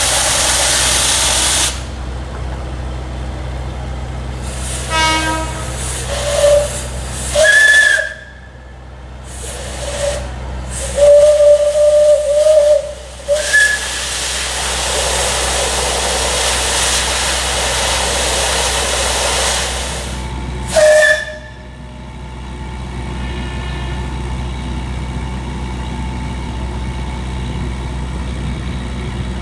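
Alishan Forest Railway Shay No. 25 geared steam locomotive venting steam with a loud hiss for the first couple of seconds, then sounding its steam whistle: a few short toots, a longer blast about halfway through, and one more short blast later. A steady low rumble runs underneath.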